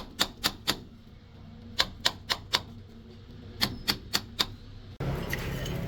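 Sharp knocks struck in quick runs of three or four, about four a second, with short pauses between the runs. About five seconds in, a louder, steady mechanical noise with a low hum starts abruptly.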